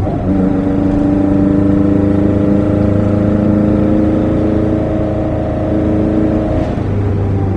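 Lada VAZ 2103's 1600cc four-cylinder engine on twin Weber DCOE 40 carburettors running at a steady cruise in gear, heard inside the cabin. Near the end the engine note drops lower as the throttle eases.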